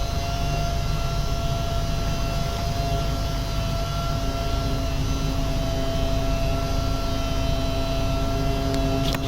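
Power sander motor running steadily, with a constant droning hum and a low rumble. A few sharp clicks come at the very end.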